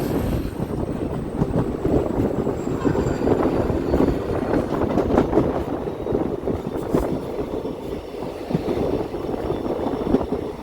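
Train running on the rails: a steady rumble with irregular clicks and rattles from the wheels and carriages.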